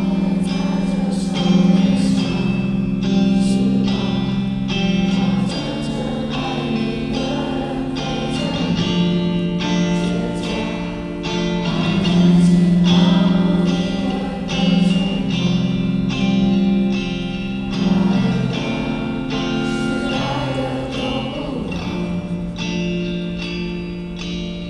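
Live rock band playing, with singing over guitar and a steady beat.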